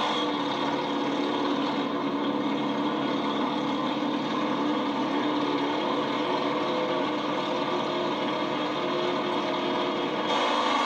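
Vehicle engine idling steadily. Near the end the sound suddenly gets louder and brighter.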